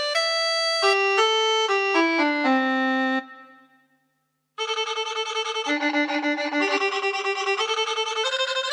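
Yamaha PSR-SX arranger keyboard playing its sampled violin voice: a short descending phrase that fades out, then after a brief gap a second phrase with a pulsing, wavering tone and two notes sounding together in places.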